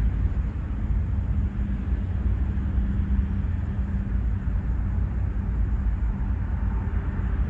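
Steady low outdoor rumble with a faint constant hum, no distinct events.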